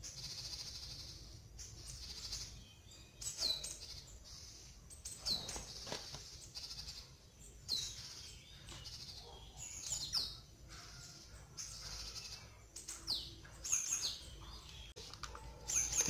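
Small birds chirping: about ten short, high calls that drop sharply in pitch, scattered through, over a steady high-pitched hiss that comes and goes.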